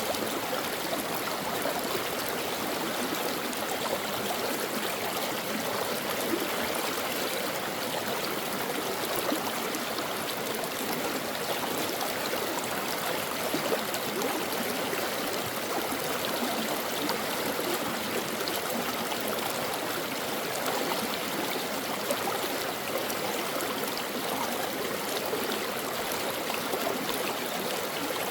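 A brook running over stones, a steady rushing and trickling of water.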